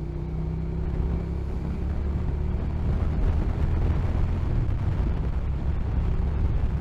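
Motorcycle engine running under way, a steady low drone with road and wind noise, growing a little louder after a couple of seconds.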